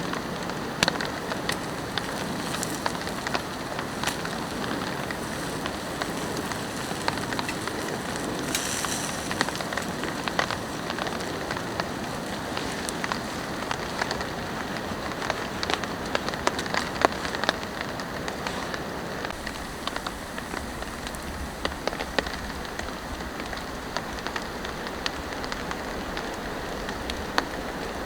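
Steady rain falling, with many sharp individual drops tapping throughout.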